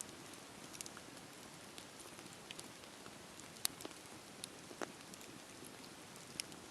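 Campfire burning: a soft, steady rush of flame with scattered sharp crackles and pops, a few of them louder than the rest.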